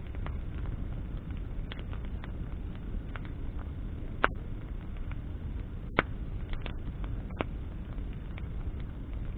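Wood bonfire burning, with a steady low rush under it and sharp crackles and pops of burning branches, the loudest two about four and six seconds in.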